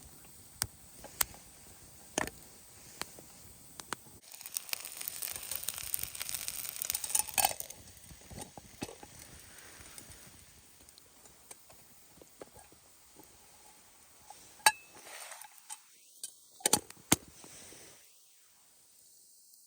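Wood campfire crackling, with sharp scattered pops. For a few seconds after about four seconds in there is a denser rustling hiss, and near the end come a few louder snaps.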